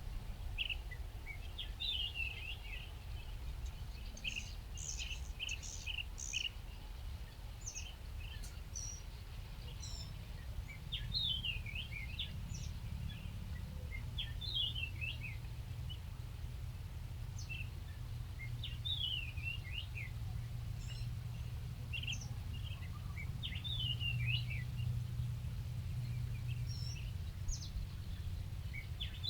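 Small bird chirping: short high chirps and quick falling twitters, coming in scattered bouts, over a steady low background rumble.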